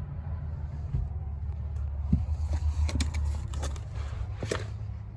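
Footsteps climbing the steps up into a trailer's loft, a few scattered knocks and clicks over a steady low rumble.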